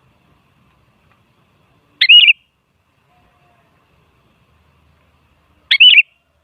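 Sooty-headed bulbul giving two short, quick warbled calls, about four seconds apart.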